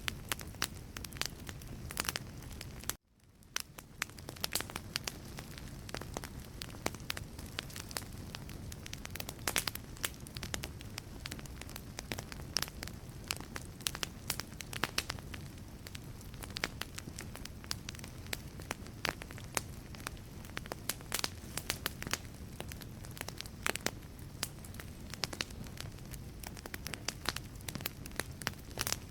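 Wood fire burning in a fireplace, crackling with many irregular sharp pops over a low steady rush of flame. About three seconds in the sound cuts out for a moment and fades back up.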